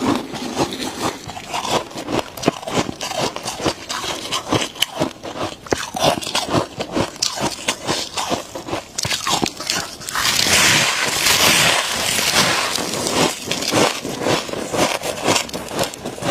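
Close-miked crunching and chewing of soft freezer frost: many irregular crackly bites, with a louder, denser stretch of crunching about ten seconds in.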